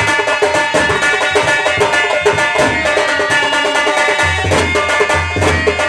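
Folk stage music: rapid drum strokes with deep booming drum beats, over steady held notes from a sustained melodic instrument.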